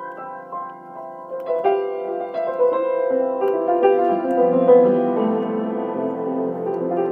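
Background piano music: sustained, overlapping notes, growing fuller from about a second and a half in.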